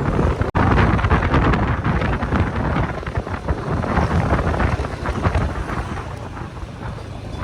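Wind buffeting the microphone of a moving motorcycle, a loud dense rumble over the faint noise of the bike and road. It cuts out for an instant about half a second in, then eases off gradually over the last few seconds.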